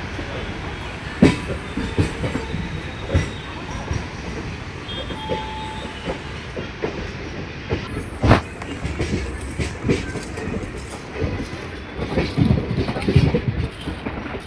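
Railway train noise: a steady rumble with irregular metallic clanks and knocks, the two sharpest about a second in and a little past halfway.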